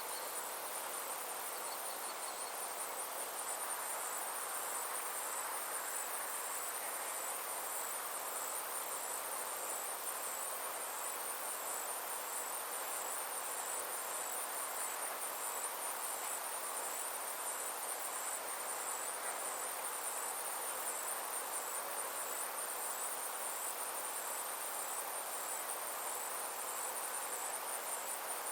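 Insects, crickets or similar, trilling in a steady high-pitched pulsing drone over a soft even wash of outdoor background noise.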